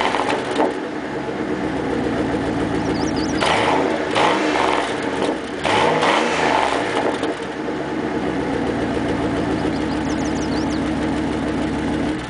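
1995 Dodge Dakota's 318 Magnum V8 through a single-chamber Flowmaster dual exhaust, idling and revved up and back down twice a few seconds in, then settling back to idle before the sound stops near the end.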